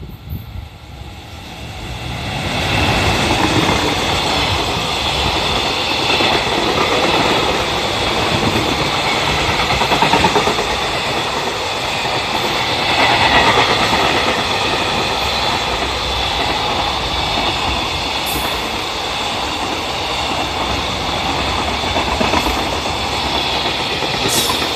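A freight train hauled by an EF210 electric locomotive passing through a station without stopping: the noise swells over the first couple of seconds as the locomotive arrives, then the long train of container wagons and tank cars rolls past in a steady loud rumble with a few sharp clicks near the end.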